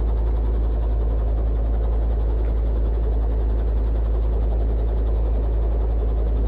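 Robinson R22 helicopter running, its piston engine and rotor making a steady, unchanging low drone.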